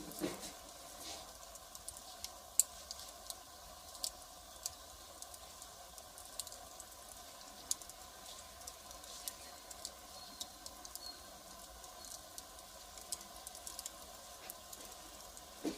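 Firewood fire crackling: irregular sharp pops and snaps over a faint steady hiss, with one louder snap about two and a half seconds in.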